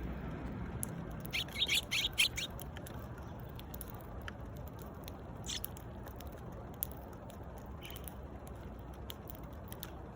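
Eurasian tree sparrows chirping: a quick run of five or six short chirps about a second and a half in, then a single chirp about halfway, over steady low background noise.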